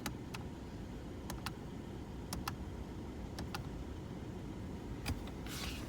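Sharp plastic clicks of buttons on a Ford Fiesta's radio/CD unit being pressed and released, in pairs about once a second, over a low steady hum.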